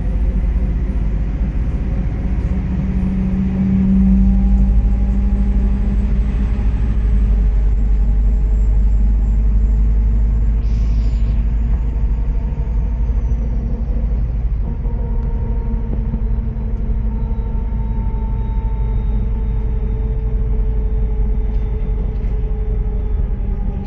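MAZ-103 city bus under way, heard from inside: a steady engine and drivetrain drone with low rumble and a whine whose pitch slowly shifts up and down. A short hiss comes about eleven seconds in.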